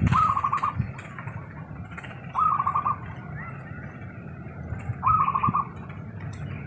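Zebra dove (perkutut) call, three times about two and a half seconds apart: each a short opening coo followed by a quick run of about five clipped notes.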